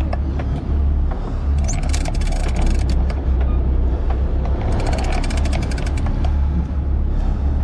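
A boat's engine running with a steady low drone. Over it come two bursts of rapid mechanical clicking, a few seconds apart.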